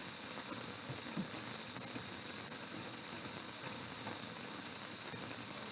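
Kitchen tap running water into the sink, a steady hiss, while hands are being rinsed.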